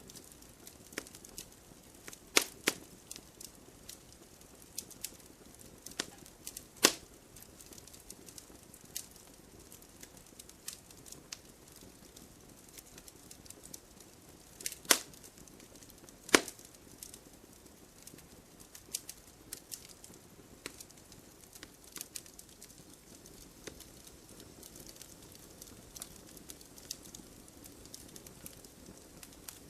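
Wood fire crackling in a fireplace: irregular snaps and pops of burning logs over a faint steady hiss. The loudest pops come about two seconds in, near seven seconds, and twice around fifteen to sixteen seconds.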